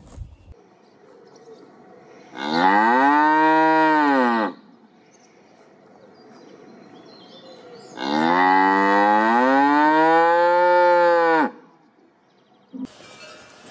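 A cow mooing twice, two long, loud moos that each rise and then fall in pitch, the second longer than the first.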